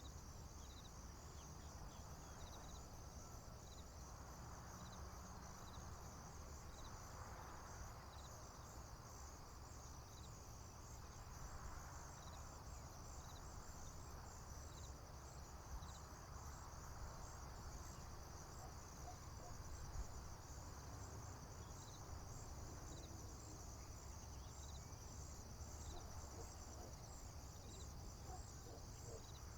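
Faint, steady chorus of crickets trilling high, with a separate short chirp repeating about every second and a half, over a low rumble.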